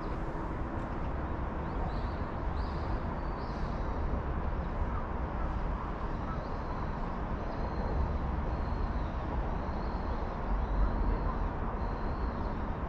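Outdoor ambience: a steady low rumble that swells now and then, with faint short high chirps repeating over it.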